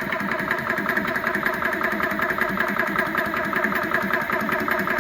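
Yong Heng 4500 psi high-pressure air compressor running steadily with a fast, even pumping rhythm. Its valve is closed, so it is building pressure into an air bottle.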